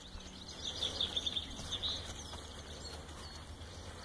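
Small birds singing and chirping in quick short notes, busiest in the first two seconds, over a faint low outdoor rumble.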